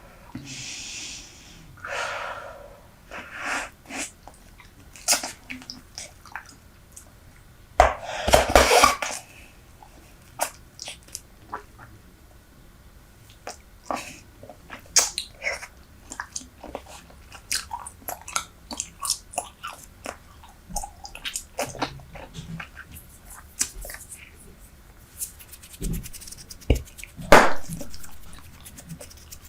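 Close-miked chewing of Super Bubble bubble gum: a steady run of wet smacks and clicks, with a louder, longer burst about eight seconds in and a sharp snap near the end.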